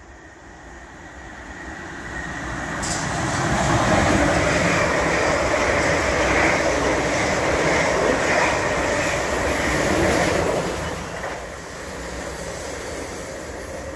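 Two coupled South Western Railway Class 444 Desiro electric multiple units passing through the station at speed. The noise of wheels on rail builds as they approach, stays loud for about seven seconds as the carriages go by, and drops to a lower, steadier level about ten and a half seconds in.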